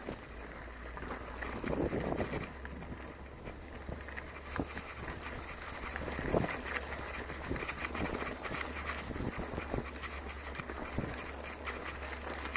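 Bicycle riding over a rough dirt trail: irregular rattles, clicks and knocks from the bike jolting over the ground, over a steady low rumble.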